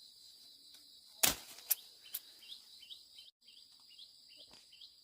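Steady high-pitched insect drone with short falling chirps repeating every fraction of a second. About a second in there is a loud, brief crackling rustle, followed by a couple of sharp clicks.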